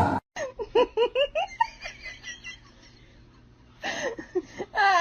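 A person giggling in a quick run of short laughs, then a pause and more laughing and voice near the end.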